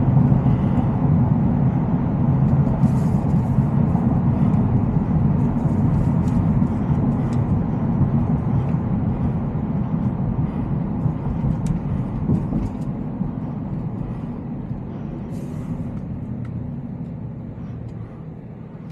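The Shelby F-150 Super Snake's supercharged 5.0-litre V8 running under way, with road noise, dying down over the last several seconds as the truck eases off.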